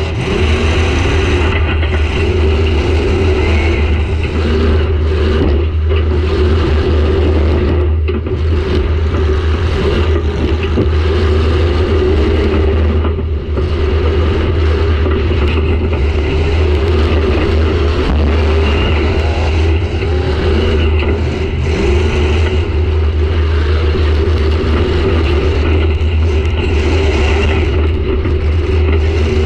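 Demolition derby car's engine running loud, its pitch rising and falling as the throttle is worked, heard from inside the gutted cabin.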